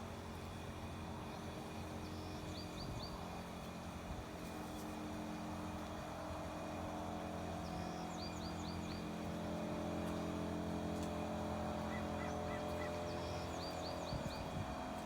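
A steady low hum, like distant traffic or a running engine, that slowly grows a little louder. Over it, a bird gives a short call of four quick high chirps three times, about five seconds apart.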